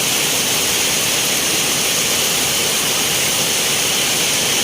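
Heavy rain pouring down steadily: a loud, even hiss of downpour with no let-up.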